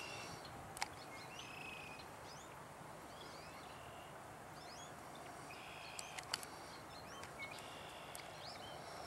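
Small birds chirping and calling over a faint, steady open-air background, with a few short sharp clicks.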